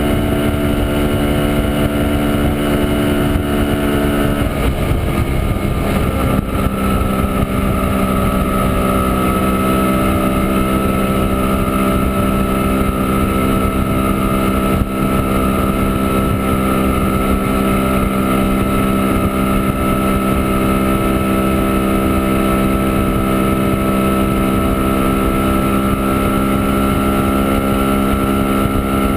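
Montesa Impala Comando 175's single-cylinder two-stroke engine running steadily under way, with wind on the microphone. About five seconds in the engine note drops a little, then holds steady.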